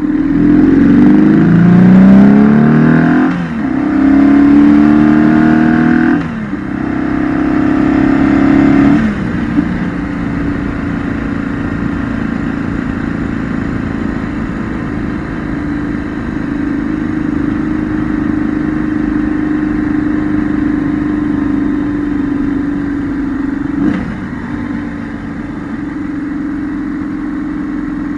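2008 BMW R1200GS's boxer twin accelerating through the gears, its note rising and then dropping sharply at three upshifts. About nine seconds in it settles to a steady cruise, with one brief dip in pitch later on.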